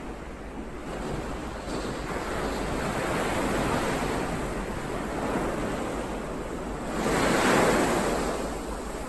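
Ocean waves breaking and washing ashore. The rush builds through the first few seconds, and the loudest wave breaks about seven seconds in before receding. Wind rumbles on the microphone underneath.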